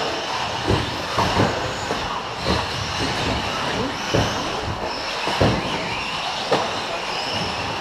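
Several electric radio-controlled short course trucks racing, their brushless motors making a steady high-pitched whine, with about six sharp thumps spread through it as the trucks hit the track.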